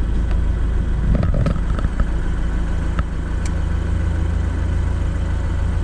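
Steady engine and road noise of a car being driven, with a few light knocks about a second in; it cuts off suddenly at the end.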